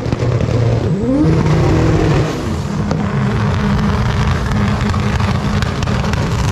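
Drag-racing car engine revving, its pitch sweeping up about a second in and then holding a steady note.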